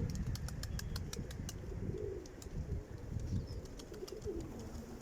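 Pigeons cooing: soft, low coos from about two seconds in, repeating toward the end, over a steady low rumble. A quick run of sharp clicks comes in the first second and a half.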